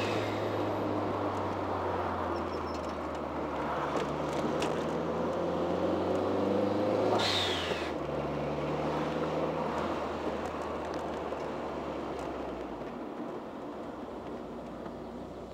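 1987 Dodge Daytona Shelby Z's turbocharged 2.2-litre four-cylinder pulling steadily up through a gear. About seven seconds in comes a short hiss falling in pitch, the blow-off valve venting as the throttle closes for the shift. The engine then picks up again in the next gear and gradually eases off.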